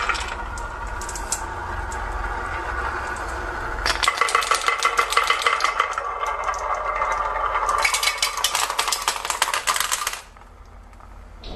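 Marbles rolling and clattering down a marble-run track: a steadier rolling sound, then a dense run of quick small clicks from about four seconds in that stops suddenly near the end.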